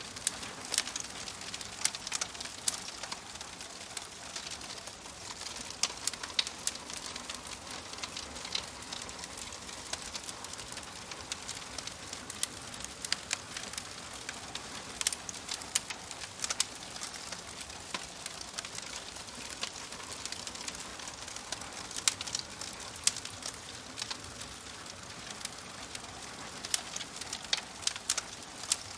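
Wood fire crackling: a steady soft hiss with irregular sharp pops and snaps scattered through it, a few of them much louder than the rest.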